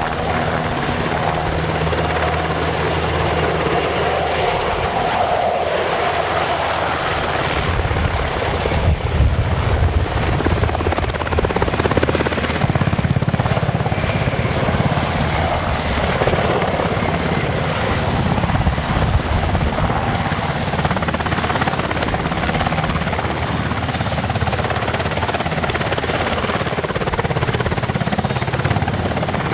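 Mitsubishi SH-60K helicopter's main rotor and twin turboshaft engines running steadily, growing louder and rougher for a few seconds about a third of the way in.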